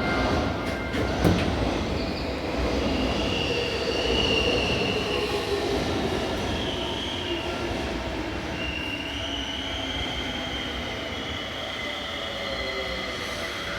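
Another electric train moving along a neighbouring track, heard from inside a stopped train: its wheels squeal and its whine slowly glides in pitch over a steady rumble. There is a sharp clank about a second in.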